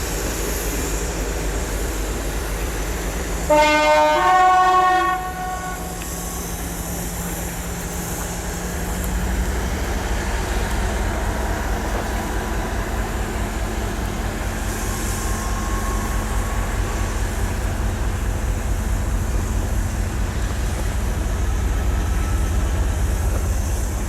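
A diesel locomotive sounds its two-tone horn, a lower note then a higher one, about three and a half seconds in; it is the loudest moment. Under it the engine runs with a low, steady throb that grows louder from about nine seconds in.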